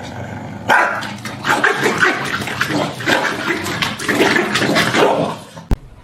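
A dog barking and vocalizing loudly for several seconds, ending with a sharp click near the end.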